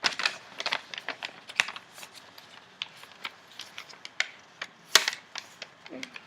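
A sheet of paper being folded and creased by hand: irregular crackling clicks and rustles, with one sharper, louder crackle about five seconds in.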